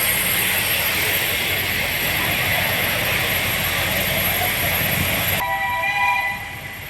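Pacific steam locomotive standing in the station, with a loud steady hiss of escaping steam. Near the end the sound changes abruptly to a short horn-like blast of several tones sounding together.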